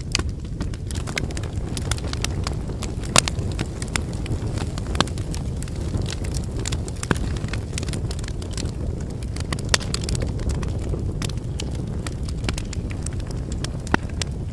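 Wood campfire burning: firewood crackling steadily with scattered small snaps and a few louder pops, over a constant low rumble.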